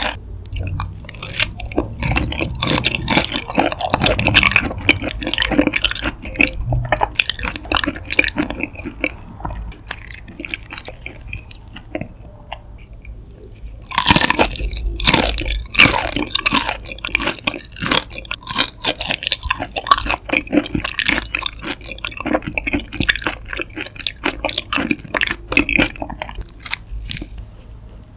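Close-miked chewing of shrimp, with wet mouth sounds and small crackly bites. The chewing fades almost to nothing for a moment, then starts again louder as a fresh raw shrimp goes in.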